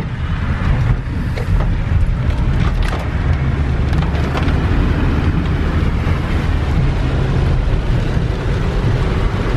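Steady low rumble of road noise inside a moving car, with a few light clicks or rattles in the first few seconds.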